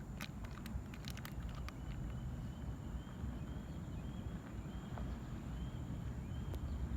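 Gusty wind rumbling on the microphone during a heavy rain, with scattered raindrop ticks in the first couple of seconds. From about two seconds in, faint short high chirps repeat about twice a second.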